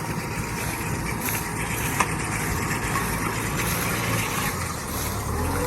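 Kubota M6040 tractor's diesel engine running steadily, with a single sharp click about two seconds in.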